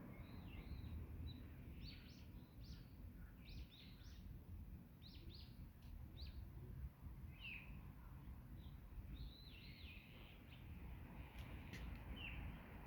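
Birds calling: many short, high chirps and quick downward-sliding calls scattered through, faint over a steady low background noise.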